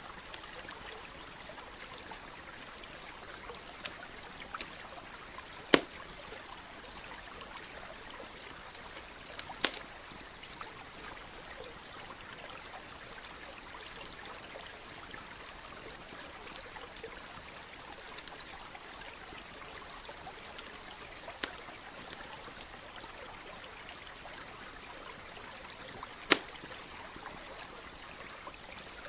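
Campfire crackling with scattered sharp pops, three of them loud, over the steady rush of a nearby stream.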